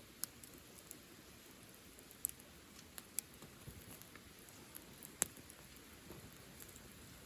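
Wood bonfire burning with a faint low crackle and scattered sharp pops, the loudest about five seconds in.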